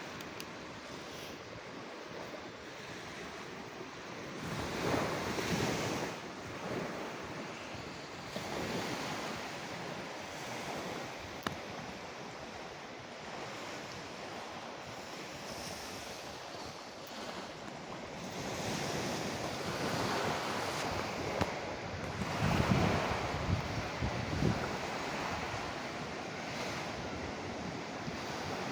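Ocean waves breaking and washing on a shore in a continuous rushing wash, swelling louder about five seconds in and again in the last third, with some wind.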